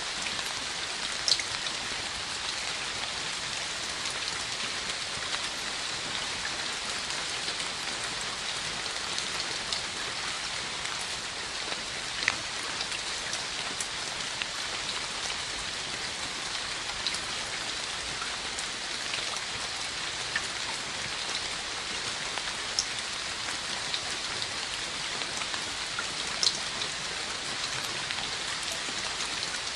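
Steady rain falling on a hard surface, a continuous patter of drops with a few louder single drop hits scattered through.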